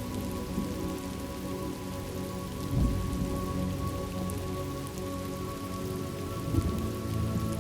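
Steady rain falling on a surface, with individual drops, as a sleep-soundtrack ambience. Low rumbles swell briefly about three seconds in and again near the end.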